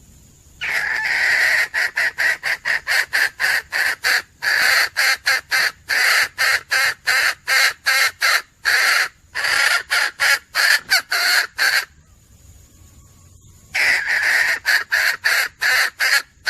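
Female junglefowl (hen) calling in a rapid run of loud clucks, about four a second. There is a pause near the end before the clucking starts again.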